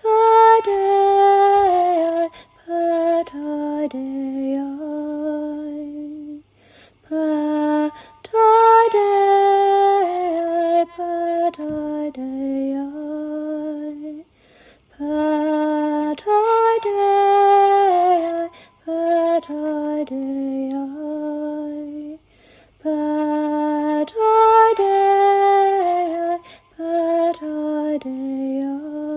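A woman singing a slow, meditative sung phrase with long held notes that glide downward, repeating it about every seven to eight seconds with short breaths between the phrases.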